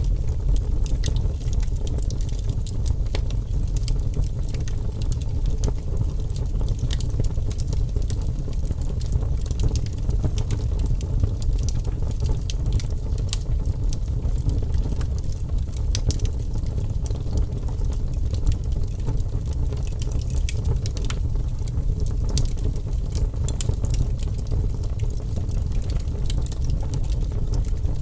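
Wood fire burning in a fireplace: a steady low rush of flames with many scattered sharp crackles and pops.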